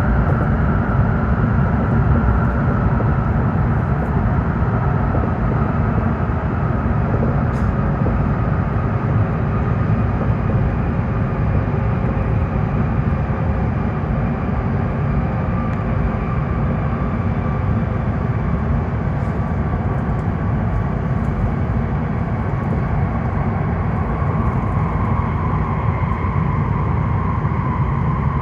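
Cabin noise inside a W7 series Shinkansen passenger car on the move: a steady low rumble with a faint whine that slowly falls in pitch.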